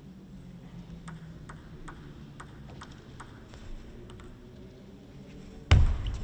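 Table tennis ball clicking crisply about two or three times a second, against a faint hall hum. Near the end a sudden loud burst breaks in.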